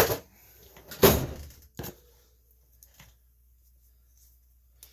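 A few knocks from objects being handled and set down: a sharp knock, then a louder thump with a brief rattle about a second in, followed by a lighter click.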